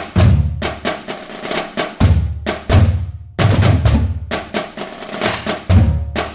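Percussion music: fast, dense drumming with sharp hits and deep bass-drum strikes.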